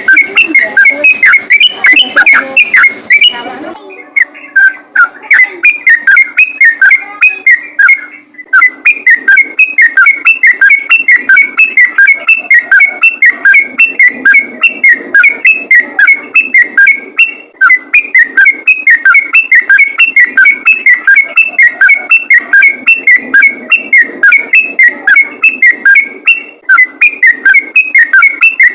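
Recorded song of a trucukan (yellow-vented bulbul), played loud: a fast, unbroken chatter of short bubbly whistled notes, several each second, pausing briefly twice early on before running on. This is the rapid, sustained 'ropel' singing used as a lure call for bulbuls.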